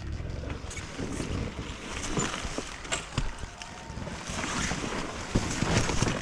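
Wind noise on the microphone with irregular knocks and clatter from an enduro motorcycle jolting over a rough dirt trail.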